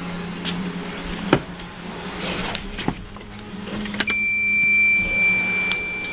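A steady low hum in a car under test, with a few sharp clicks. About four seconds in, a louder, steady high-pitched electric whine starts up.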